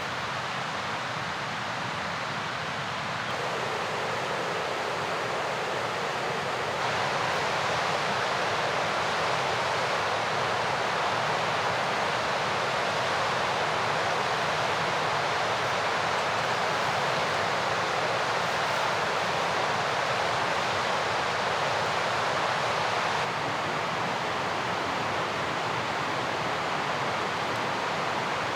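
Mountain river rushing: a steady wash of water noise. It grows louder in two abrupt steps early on and drops back a little near the end.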